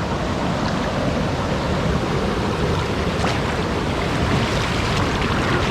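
A small waterfall rushing steadily close to the microphone: an even, unbroken noise of falling water.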